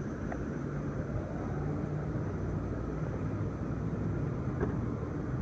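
Power liftgate of a Mercedes-Benz ML350 closing under its motor, a steady low hum with a faint click about four and a half seconds in as it latches.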